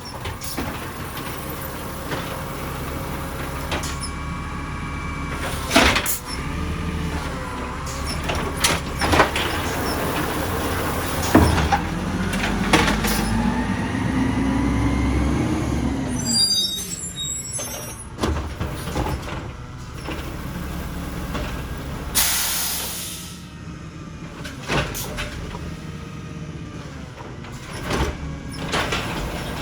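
Side-loader garbage truck at work: the engine runs steadily, with a rising whine near the middle and several sharp knocks and bangs. A loud air-brake hiss comes about seven seconds before the end.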